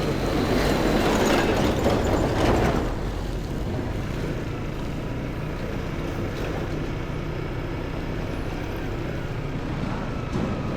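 Motorcycle engine running at low speed with road and wind noise. The rush of noise is louder for the first few seconds, then settles to a steady, quieter engine sound.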